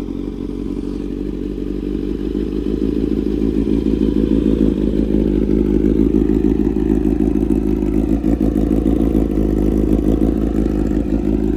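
Kawasaki Z900's inline-four engine idling after a cold start, breathing through an SC-Project full-system titanium exhaust. It runs steadily, growing louder over the first five seconds or so.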